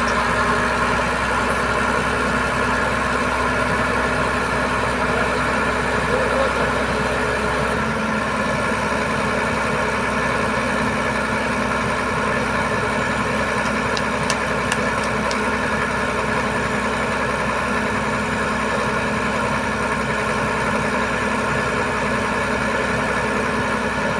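Heavy truck's diesel engine running steadily at an unchanging speed, with a few faint clicks a little past halfway.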